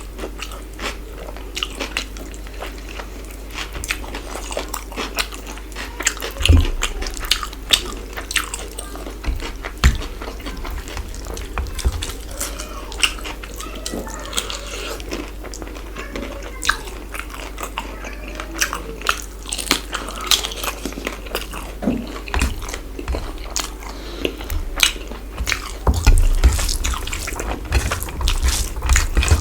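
Close-miked eating: wet chewing and biting with many small sharp clicks and crunches, over a steady low hum, with a heavier low bump near the end.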